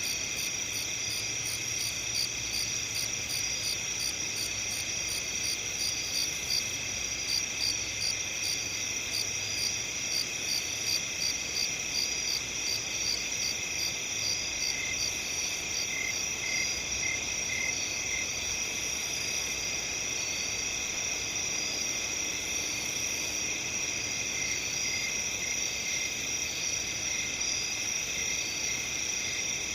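A chorus of crickets trilling steadily at several pitches, with rapid, evenly repeated chirps layered over the continuous trill.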